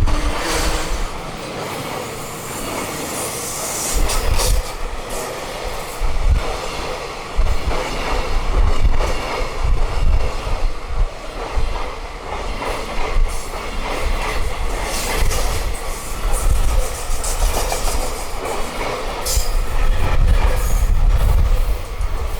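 High-speed freight train's wagons running past close by: a continuous rolling rumble and rattle, with the wheels clattering over rail joints.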